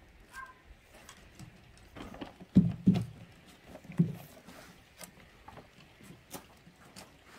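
Scattered knocks and light clattering of things being handled, with a few louder low thumps about two and a half, three and four seconds in.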